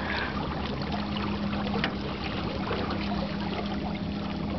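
Small boat motor running steadily at low speed, a steady low hum, with water trickling and lapping against the hull.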